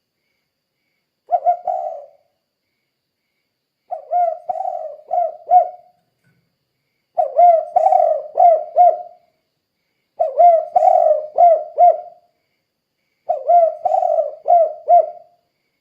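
Spotted dove (tekukur) singing, in the 'kuk 2' style kept birds are prized for. It repeats a phrase of several short low coos about every three seconds, five phrases in all.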